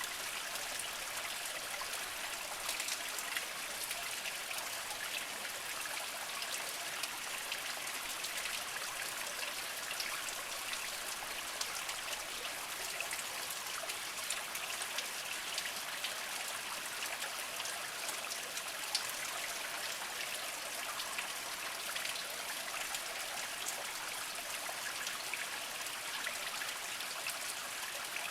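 A small spring flowing slowly over mossy rocks: a steady trickle made of many small drips and splashes.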